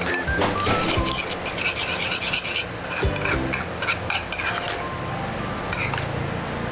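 Spoon stirring and scraping baby-bird hand-feeding formula in a small cup, in quick repeated strokes that thin out after about three seconds.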